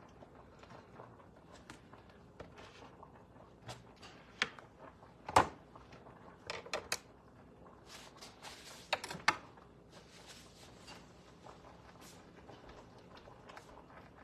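Scattered kitchen handling noises: light knocks and clicks, the loudest a sharp knock about five seconds in, with a short scraping rustle and a couple more knocks a few seconds later.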